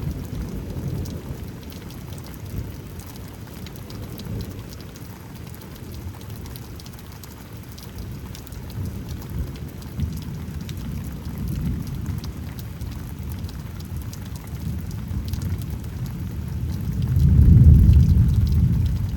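Rain falling steadily with thunder rumbling low underneath, swelling into a louder roll of thunder near the end.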